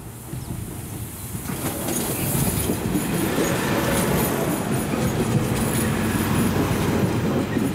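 DB Class 642 (Siemens Desiro Classic) diesel multiple unit approaching and passing close by, its diesel engines and wheels on the rails growing louder from about a second and a half in and staying loud as the cars go past.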